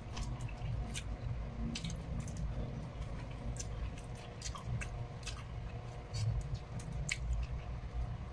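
Close-up eating sounds: food being chewed, with scattered, irregular sharp clicks and smacks.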